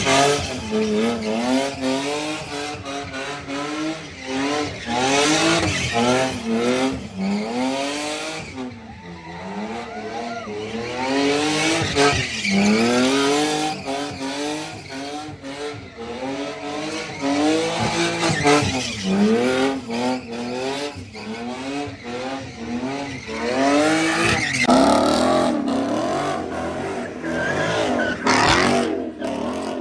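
A car engine revving hard, its pitch rising and falling again and again, with tyres screeching.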